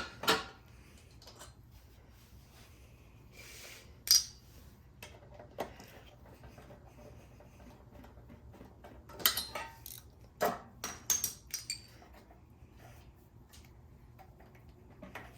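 Scattered metal clinks and clicks of hand tools and parts while removing a lawnmower's ignition coil, with a cluster of quick clinks about two-thirds of the way through.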